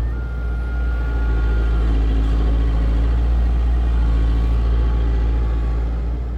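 Heavy diesel engine of construction machinery running steadily under load, a deep continuous drone with a faint thin whine over it in the first couple of seconds.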